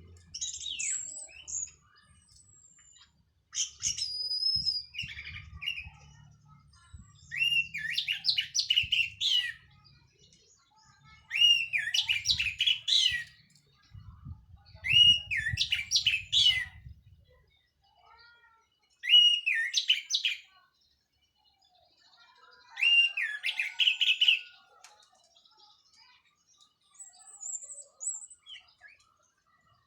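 Orange-headed thrush singing: about six loud song phrases of varied whistled notes and rapid chattering runs, each lasting a second or two, with pauses of a couple of seconds between them. A low rumble runs under the song for the first half and then stops.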